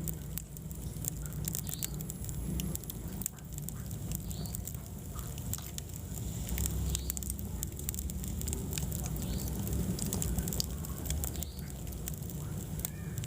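Wood fire burning in a fireplace: a steady stream of irregular sharp crackles and pops over a low rumble.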